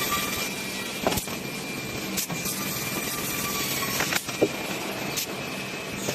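Hydraulic vertical band sawmill running, a steady machine noise with a few sharp knocks, one about a second in and two close together around four seconds in.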